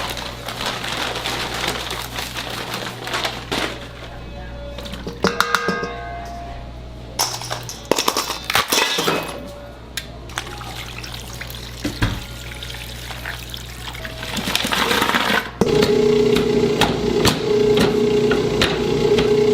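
Irregular clattering and knocking of work at a food stall, then a steady machine hum that starts suddenly about 15 seconds in.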